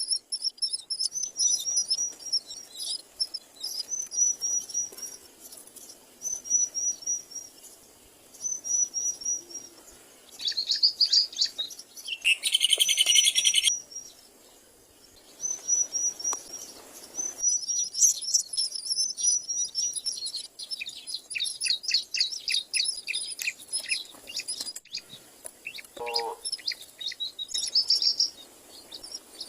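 Myna birds chirping in repeated short series of high chirps. A loud, harsh burst of calling comes about twelve seconds in and lasts about two seconds, and a brief lower call follows near the end.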